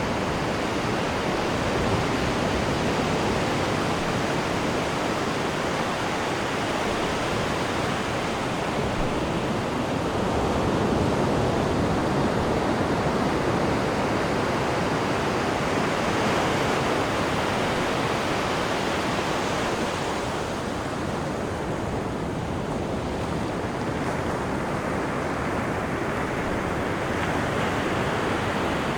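Sea water rushing and churning in the wake behind a cruise ship, a steady wash that swells and eases gently.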